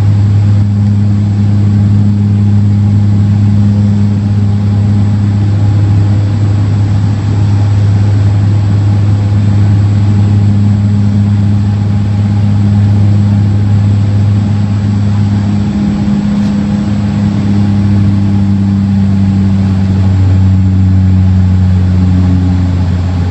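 Cabin drone of a Dash 8 Q400's turboprop engines and six-bladed propellers, a loud steady low hum with a faint higher overtone. Its pitch shifts slightly about sixteen seconds in.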